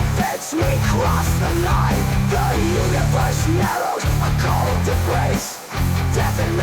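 AI-generated black metal music: a dense wall of distorted electric guitars over heavy low end, with a few short breaks where the band cuts out for a moment.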